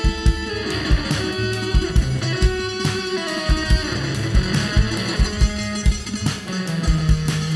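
Rock band playing an instrumental passage: guitars over upright bass and a steady drum beat.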